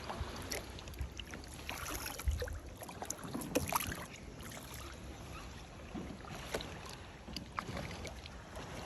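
Kayak paddle strokes dipping and splashing in calm water, with scattered drips and small splashes.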